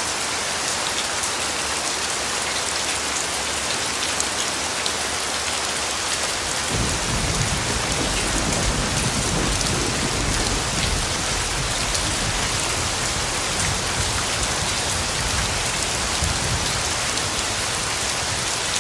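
Steady rain falling, an even hiss. About seven seconds in, a low rumble of thunder sets in and keeps rolling underneath the rain.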